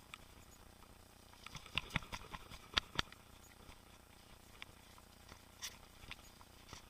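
Mountain bike clattering over rough trail: irregular clicks and knocks, with a burst of sharp knocks about two to three seconds in.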